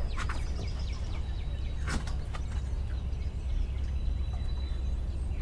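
Small birds chirping over and over in short downward-sliding notes, over a steady low rumble. A brief scuffing noise about two seconds in.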